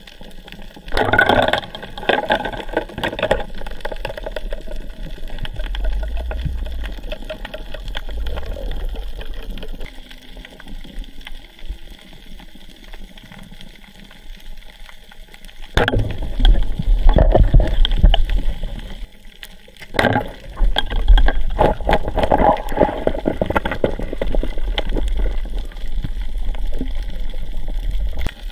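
Water sloshing and gurgling around the camera during a night spearfishing dive, in irregular loud spells with a low rumble and quieter stretches between.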